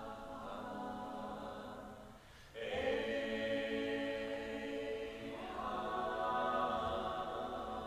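Group of voices singing long held chords, with no instruments heard. The chord breaks off briefly about two and a half seconds in, comes back louder on new notes, and more voices join higher up about five and a half seconds in.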